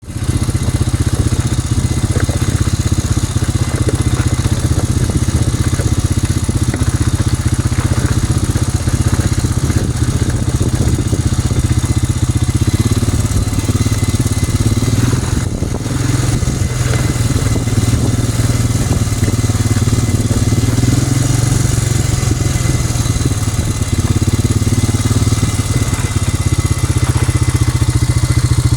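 An engine running steadily at a low, even speed, close to the microphone.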